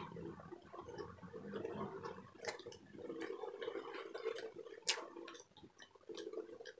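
Wet chewing and mouth sounds of someone eating braised pork and chicken adobo with her fingers. Two sharp clicks come about two and a half and five seconds in.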